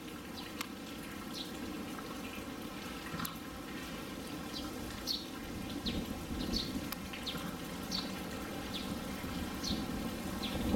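Short high chirps of small birds, repeating every half second to a second over a steady low rush of outdoor background noise.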